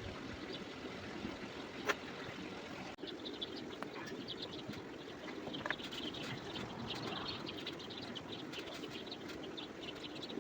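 Small birds chirping rapidly over a steady background hiss, with a sharp click about two seconds in and another a few seconds later.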